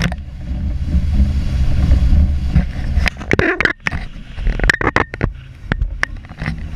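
A boat's engine running with a steady low rumble, louder in the first half. Several sharp knocks or clicks come over it between about three and five seconds in.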